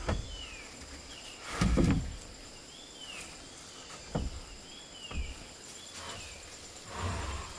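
Outdoor ambience of insects droning steadily at a high pitch, with a short falling call repeating about once a second. A few dull thuds, the loudest about two seconds in.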